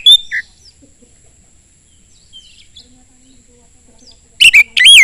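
Oriental magpie-robin (kacer) singing: loud, sharp whistled notes right at the start and again near the end, with soft chirps and warbling between them.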